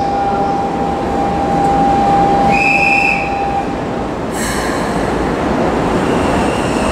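Keikyu New 1000 series stainless-steel electric train pulling away from the platform. A steady tone fades out about halfway through, a sudden hiss comes about four seconds in, and a steady high whine rises from the train's drive as it gathers speed near the end, all over dense rumbling station noise.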